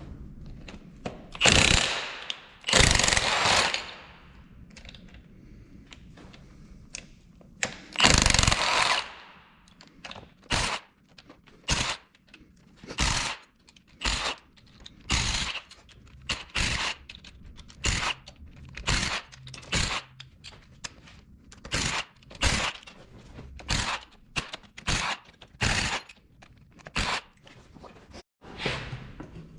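A handheld power tool run in bursts: three longer runs in the first nine seconds, then a quick series of short bursts, a little more than one a second.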